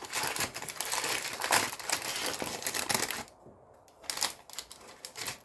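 Baking paper crinkling and rustling as it is handled and untucked: dense crackling for about three seconds, then a few softer crinkles.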